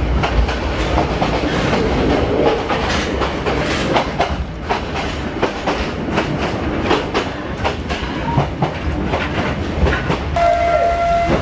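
Yangon Circular Railway train running along the track, its wheels clattering over the rails with a steady rumble. A brief steady tone sounds near the end.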